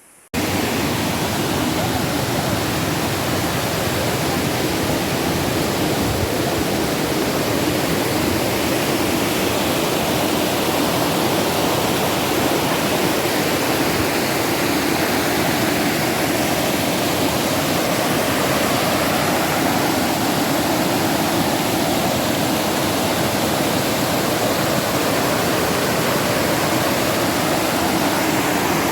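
Rushing river water, a steady loud rush that cuts in abruptly a moment in and holds unchanged.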